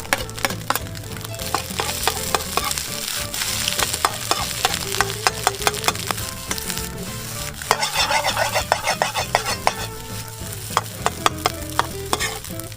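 Fried rice stir-frying in a hot iron frying pan: steady sizzling, with a metal utensil clacking and scraping against the pan several times a second. The sizzling swells briefly a little past the middle.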